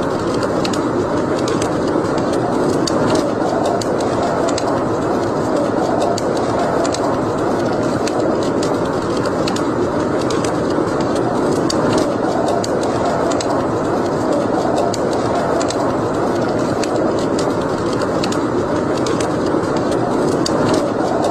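Wood fire burning in a fireplace: a steady rushing hiss of flame with frequent small, irregular crackles and pops.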